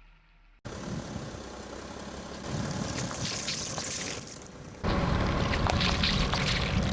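A car tyre rolling over objects and crushing them, a dense crackling and crunching with many small snaps. It cuts in abruptly about half a second in and gets louder twice, about two and a half seconds in and again near five seconds.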